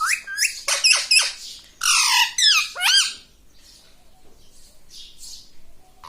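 Pet parrot squawking: a quick series of loud, shrill calls with pitch sweeping up and down over about three seconds, then stopping.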